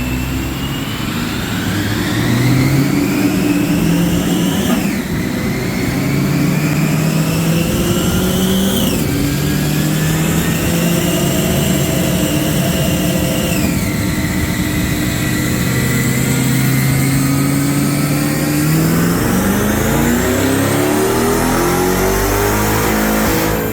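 Supercharged 2020 C8 Corvette's 6.2-litre V8 running hard on a chassis dyno, with a high whine from its Stage 2 ProCharger P1X. The engine note and whine climb, drop back sharply three times as it shifts up, then climb again near the end.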